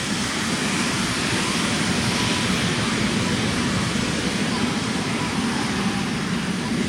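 Jet engines of Blue Angels Boeing F/A-18 Super Hornets running with a steady rushing roar, swelling slightly at first and then holding.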